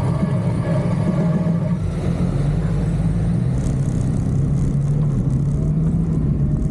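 Motorcycle engine running steadily on the move, its pitch easing down a little about two seconds in and then holding.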